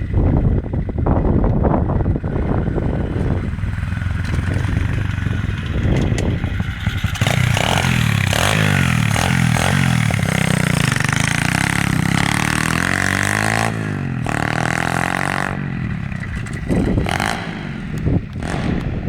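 Pit bike engine revving, its pitch rising and falling several times in the middle, with clattering and rattling around it.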